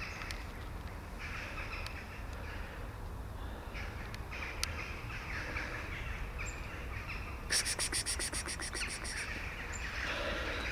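Birds calling in the background, with crow-like caws among them. About two-thirds of the way through comes a quick run of about a dozen sharp clicks.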